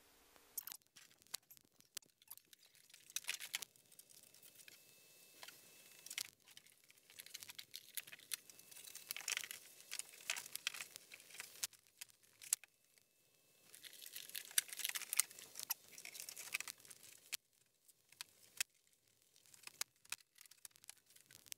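Small parts and material being handled by hand: crinkling and rustling in uneven spells, with scattered clicks and taps.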